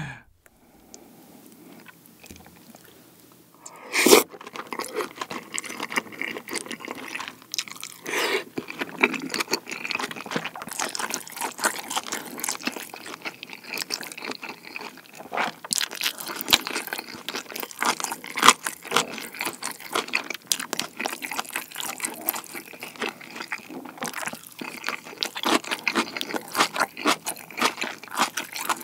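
Close-miked chewing of kimchi pizza tangsuyuk (fried sweet-and-sour pork with kimchi and cheese): fairly quiet for the first few seconds, a sharp loud bite about four seconds in, then steady crunchy, wet chewing full of rapid small clicks.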